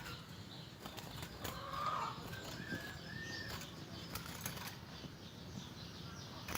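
A white-eye (pleci) fluttering its wings, with scattered short clicks and faint high chirps.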